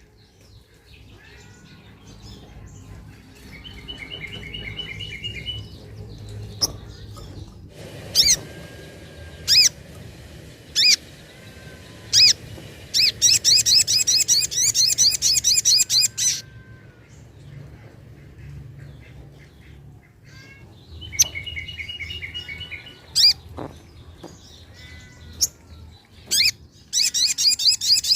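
Sogok ontong (sogon) bird calling: bursts of rapid, high, buzzy trills, shorter lower trills and single sharp chip notes, repeated over a faint low hum.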